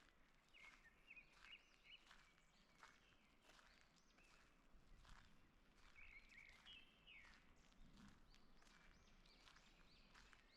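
Faint birdsong in a forest, short whistled phrases heard in a few bursts, over the steady soft footsteps of someone walking at an even pace.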